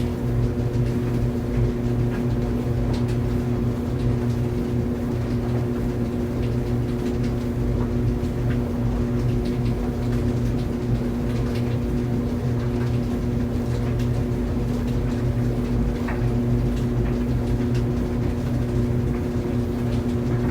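Clothes dryer running: a steady motor hum and low drum rumble, with faint scattered ticks.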